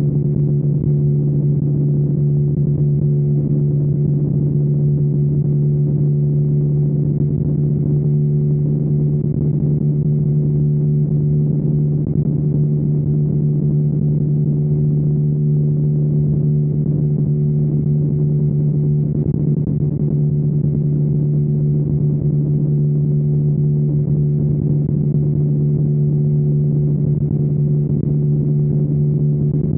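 Single-cylinder engine of a 2021 KTM Duke 125 running through a Storm GP aftermarket exhaust, held at a steady engine speed with an unchanging pitch.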